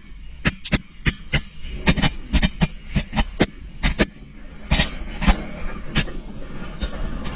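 A camera hanging on a string knocks and scrapes against the inside of a pipe as it moves through it: irregular sharp knocks, about two or three a second, over a steady low rumble.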